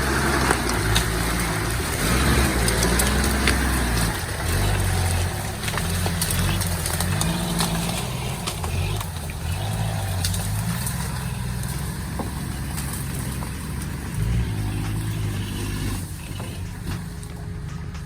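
Off-road vehicle's engine working hard over rough ground, its revs rising and falling, with scattered knocks and rattles. It eases off in the second half.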